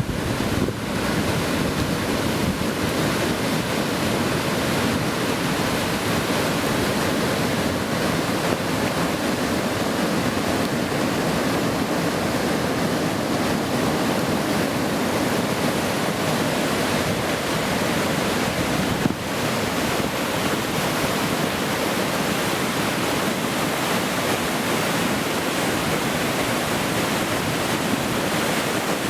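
Mill Creek in flash flood: fast, muddy floodwater rushing steadily down the creek bed. A single brief click about two-thirds of the way through.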